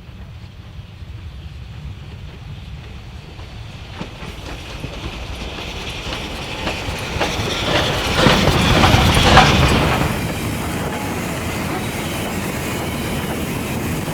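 A vintage train hauled by the steam locomotive Ww 480 passing close by. It grows steadily louder, with wheels clacking over rail joints, and is loudest about eight to ten seconds in. It then drops back to a steady rolling sound as the carriages go by.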